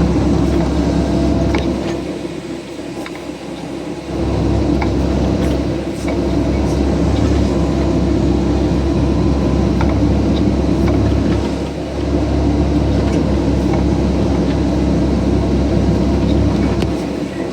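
CAT excavator's diesel engine and hydraulics running under load while working a Lasco grapplesaw through logs, a steady low hum that drops off briefly about two seconds in and again around twelve seconds, with a few faint clicks and knocks.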